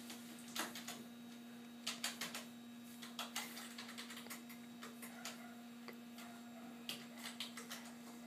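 Computer keyboard typing in short irregular bursts of clicks as patient details are entered into the X-ray system, over a steady low electrical hum.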